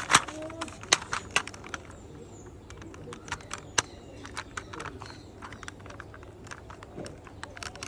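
Parts of a toy police car being handled and fitted together by hand: irregular light clicks and taps of small hard pieces, busiest in the first couple of seconds, then sparser.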